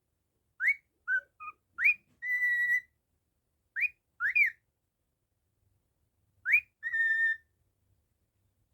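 Cockatiel whistling in three short phrases: quick upward-swooping notes, two of the phrases ending on a held steady note.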